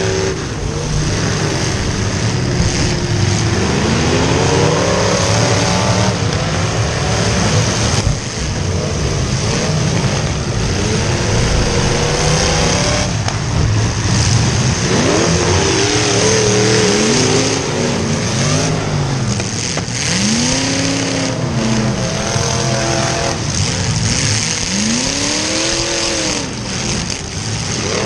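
Demolition derby cars' V8 engines revving hard, their pitch climbing and falling again and again over a loud, steady engine rumble.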